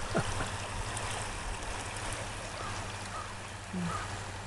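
Small stream running with a steady, even rush of water, with a sharp click right at the start.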